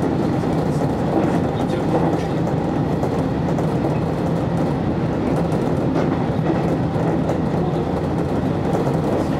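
JR electric train running steadily at speed, heard from inside the car: a continuous rumble of wheels on rail with a steady low hum and a few faint clicks of the wheels over the track.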